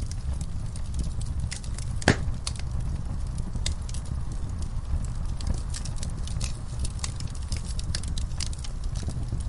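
Wood fire burning in a fireplace: a steady low rumble of flames with frequent scattered crackles and small pops, one louder pop about two seconds in.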